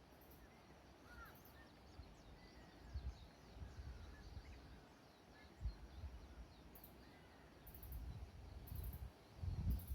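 Faint tropical birdsong: scattered short chirps and calls from several birds over quiet outdoor ambience, with irregular low rumbling thumps that grow louder near the end.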